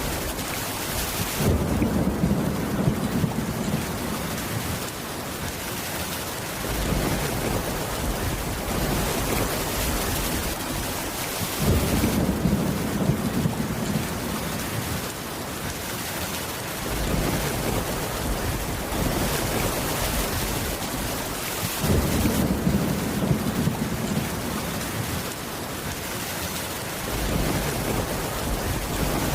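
Steady heavy rain on a wooden cabin roof, with three deep rolls of thunder at even intervals, about ten seconds apart.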